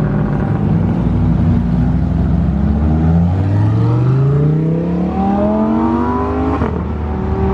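A car engine accelerating hard. After a steady drone, its pitch climbs smoothly for three or four seconds, then breaks off near the end at a lift or gear change.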